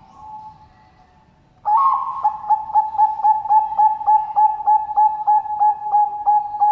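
Zebra dove (Bangkok perkutut) cooing: a faint soft coo at the start, then, after a short pause, a loud song from just under two seconds in, a long run of quick repeated coo notes at about three to four a second.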